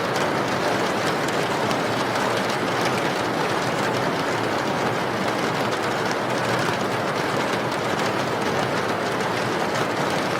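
Steady rain: an even, unbroken hiss with a fine patter of drops.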